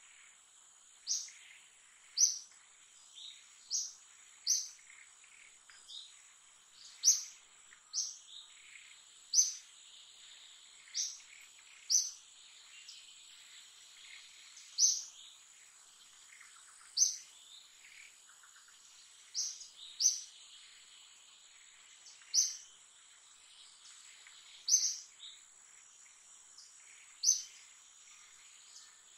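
A bird chirping: short, sharp, high calls repeated every second or so, unevenly spaced, over a steady high insect drone.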